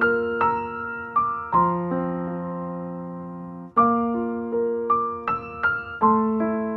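Background music: a soft piano melody with struck notes that ring out and fade, a held chord in the middle before the phrase starts again.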